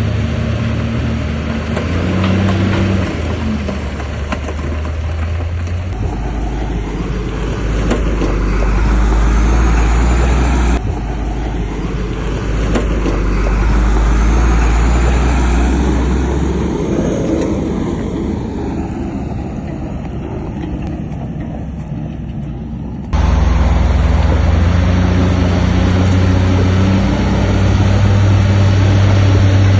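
Heavy diesel engine of earthmoving machinery running under load, its low engine note rising and falling as it works. The sound jumps abruptly about eleven and twenty-three seconds in.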